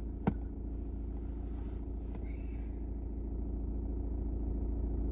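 Steady low rumble of a car's engine heard from inside the cabin, with a single short click about a third of a second in.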